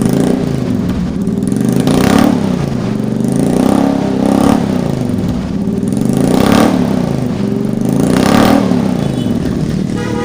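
Suzuki Jimny engine revved up and let fall back about five times, roughly every two seconds, heard through its exhaust, with a louder rasp at the top of each rev.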